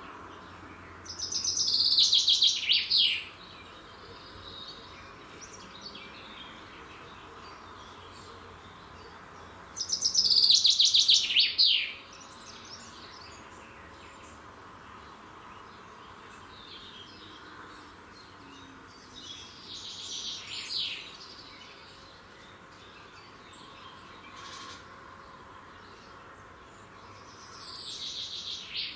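A songbird singing a loud phrase of about two seconds, a quick run of notes falling in pitch, four times at intervals of about nine seconds. A faint steady background hiss lies underneath.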